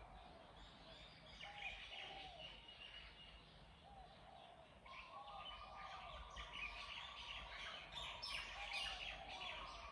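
Faint birdsong: birds chirping, with a short arched call repeated in little groups. A steady thin tone joins about halfway through.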